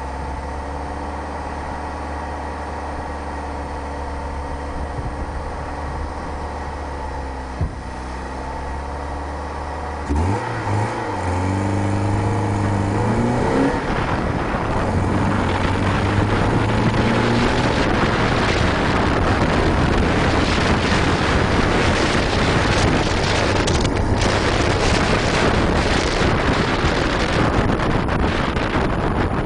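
1988 Ford Escort GT's four-cylinder engine idling steadily, then revving and pulling away with its pitch rising about ten seconds in; the car has a slipping clutch. From there, wind rushing over the front-mounted microphone and road noise from the moving car cover the engine.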